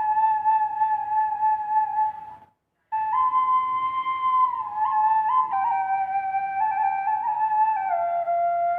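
Solo Thai khlui, a duct flute in C with an added low A, still a prototype under test. It plays held notes that step between pitches, with a short break about two and a half seconds in, then steps downward toward its low range near the end.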